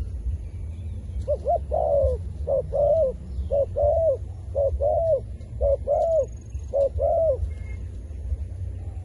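Zebra dove cooing: a run of six double notes, each a short note followed by a longer arched one, about one pair a second, over a steady low rumble.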